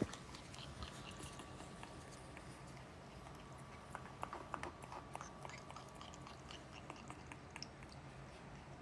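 A parrot eating, its beak making faint scattered clicks and crunches, more of them about halfway through, over a faint steady hum.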